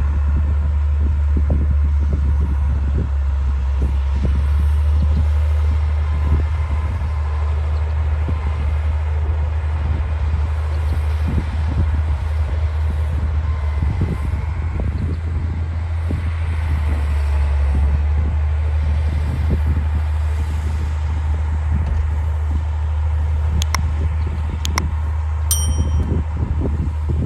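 D60 crawler bulldozer's diesel engine running steadily under load, with irregular knocking and clatter from the machine as it works. A few sharp clicks come near the end.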